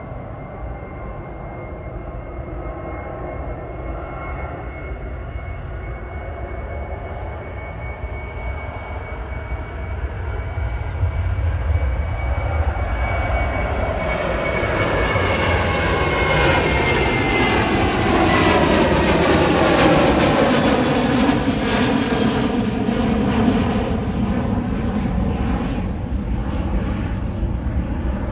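Boeing 737-800's CFM56-7B turbofan engines at takeoff power as the jet goes by: a steady high whine over a rumble grows louder, then the whine and the engine tones fall in pitch as it passes. The sound is loudest about two-thirds of the way through and eases toward the end.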